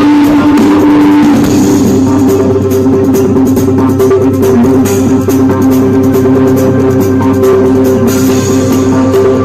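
Loud live fusion-band music: held notes over a steady run of drum strikes.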